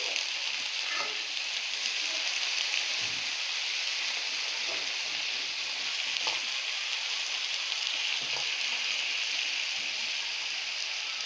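Shrimp frying in melted butter in a pan: a steady sizzling hiss, with a few faint knocks from stirring.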